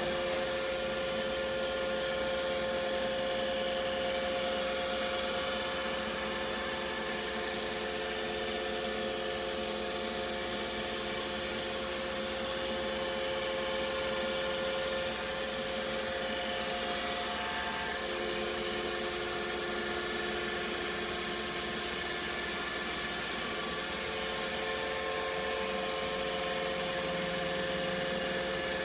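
iRobot Roomba Combo i5+ robot vacuum running: a steady whir with several held tones over a hiss, some of the tones shifting a little over halfway through.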